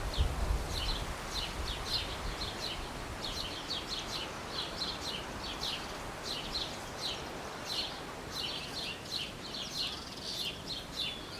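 Small birds chirping in quick short notes, many times over, against a steady background of outdoor noise.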